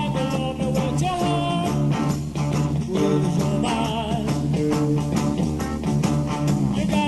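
Live psychedelic rock band playing: electric guitar lines bending over steady drums and bass.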